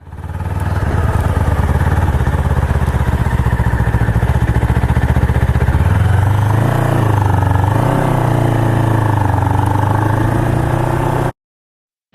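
Honda CBR250RR motorcycle engine running with a fast, even pulse, then rising and falling in pitch a few times from about halfway through. It cuts off abruptly near the end.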